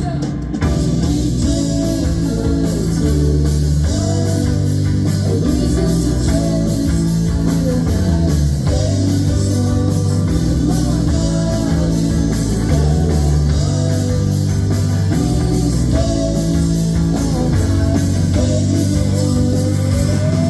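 A rock band playing live on stage: electric guitar, bass guitar and drum kit, with guitar lines that bend and slide in pitch over a steady bass and beat.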